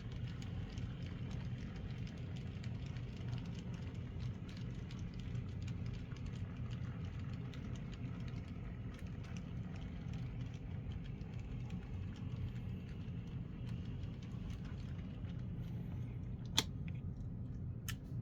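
N scale model locomotive, an Atlas VO-1000 mechanism under a 3D-printed Fairbanks-Morse H10-44 shell, running with a steady motor hum that is a little loud but smooth. Scattered light clicks run through it, with one sharp click near the end.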